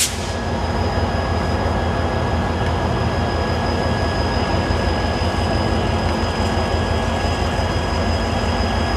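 Steady low rumble of a train running, with a brief hiss of radio squelch at the very start.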